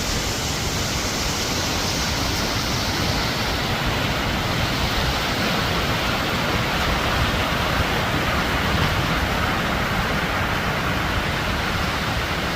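Waterfall's steady rush of heavy falling water, loud and even throughout.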